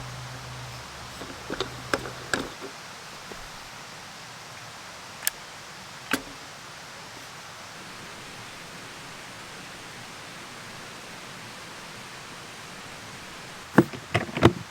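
Steady hiss of falling rain, broken by a few sharp clicks and knocks and a quick cluster of louder knocks near the end. A low hum stops about two and a half seconds in.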